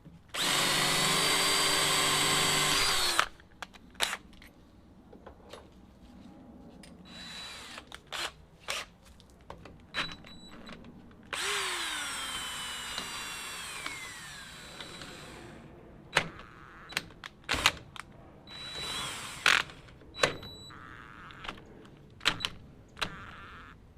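Power drill drilling a hole in the truck's body pillar for wiring: a steady run of about three seconds, then after a pause a longer run whose pitch falls as the drill slows, followed by scattered clicks and knocks of the drill and bit being handled.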